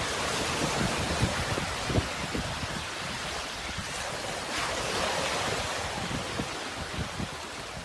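Sea surf washing continuously, with a wave swelling about halfway through, and low gusts of wind buffeting the microphone underneath.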